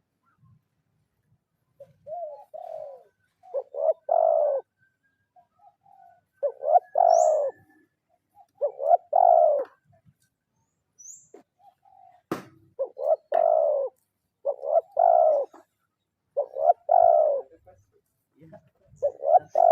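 Spotted dove (tekukur) cooing over and over, about eight short phrases of two or three coos each, roughly every two seconds: a trained decoy dove's call used to draw rival doves. A single sharp click sounds about halfway through, and a faint high chirp comes twice.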